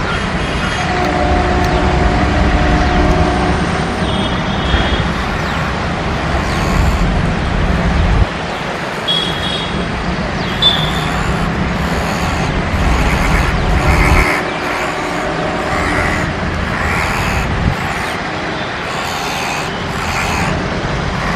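Passenger train of empty coaches rolling away down the track, hauled by an ALCo WDM 3A diesel locomotive: a steady rumble of wheels and engine. A deep low rumble underneath cuts out sharply about eight and fourteen seconds in, and a few brief high squeaks come through.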